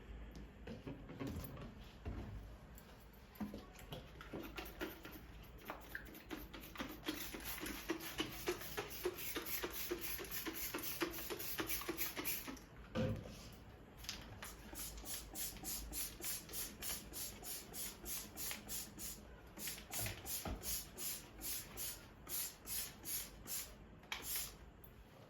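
Back-and-forth scrubbing strokes of a brush or scourer on a surface, quick and continuous for a few seconds in the middle, then settling into an even rhythm of about two strokes a second.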